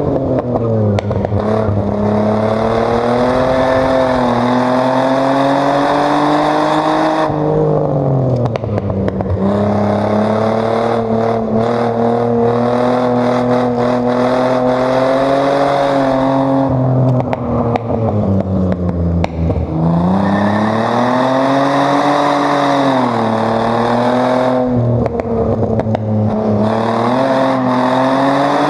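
Chevrolet Omega 3.0's straight-six engine at full effort on a racetrack lap, its pitch climbing steadily under acceleration. It falls away sharply when the driver lifts off or changes gear: once about a quarter of the way in, deepest just past halfway, and again near the end.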